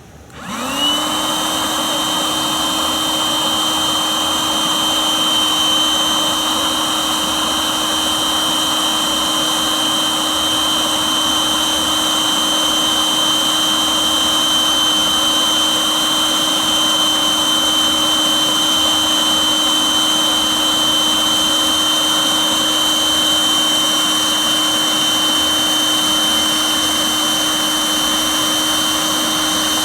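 Electric air pump switching on, spinning up to speed within about a second, then running steadily with a constant whine and the rush of air, as used for inflating an inflatable boat.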